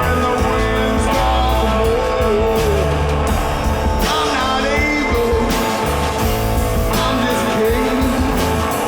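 Live rock band playing an instrumental passage: guitars over bass and drums, with a lead line that bends in pitch.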